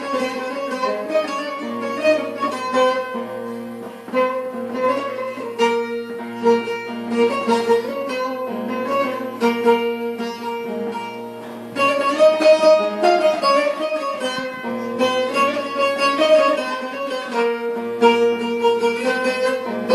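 An improvised melody on a plucked string instrument, played over a steady drone. It grows quieter shortly before the middle, then picks up again louder.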